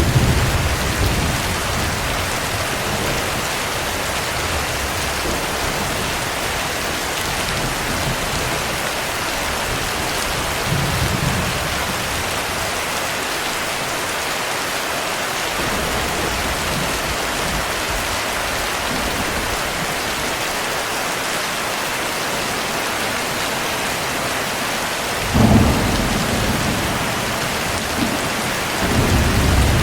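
Steady heavy rain with low rolls of thunder: a few rumbles come and go, the loudest and most sudden about twenty-five seconds in, another near the end.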